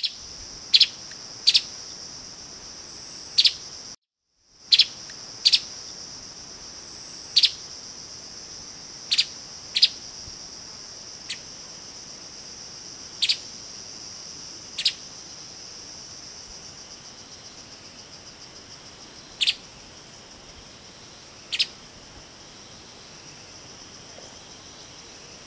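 Streaked spiderhunter giving short, sharp single call notes, about a dozen of them spaced irregularly a second to several seconds apart. A steady high insect drone runs underneath, and the sound drops out briefly about four seconds in.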